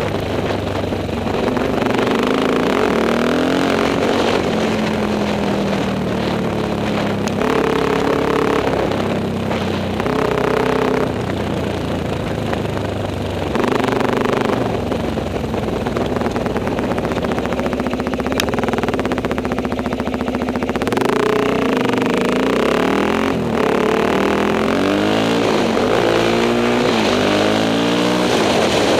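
Enduro motorcycle engine revving up and down while riding, its pitch climbing and dropping again and again as the throttle opens and closes and it shifts gears.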